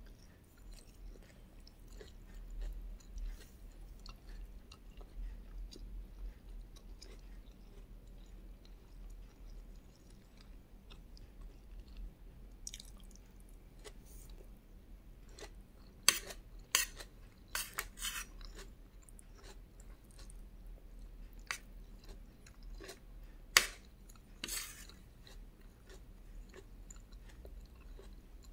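A person chewing and eating soft rice with fried egg and tomato, with small wet mouth sounds throughout. A quick run of sharp clicks comes a little past halfway, and two more sharp clicks come later.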